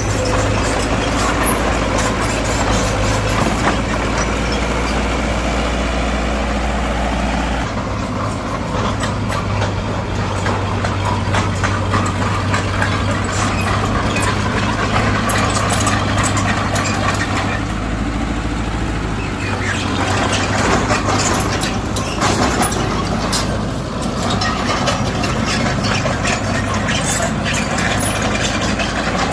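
Heavy diesel engine of earthmoving machinery running steadily, with frequent light clanks over it. The engine note shifts about eight seconds in.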